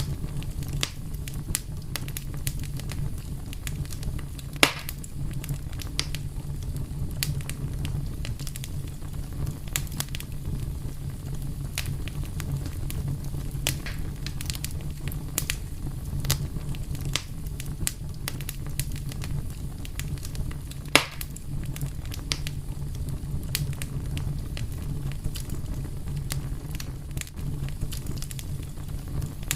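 Open fire burning with a steady low rumble and irregular crackles and snaps, two louder pops about four and a half seconds and twenty-one seconds in.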